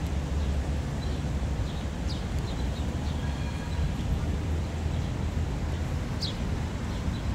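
Steady low rumble of city street traffic, with a few short high chirps about two and six seconds in.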